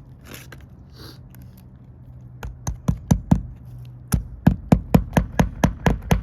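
Hammer driving a nail into an old roof shingle: a quick run of about five blows about two and a half seconds in, then, after a short pause, a steady string of about four blows a second.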